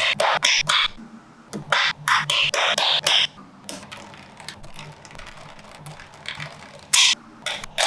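Small magnetic balls clicking and snapping against each other in quick rattling clusters. There is a quieter run of light ticks in the middle, and a sharp burst of clicks about seven seconds in.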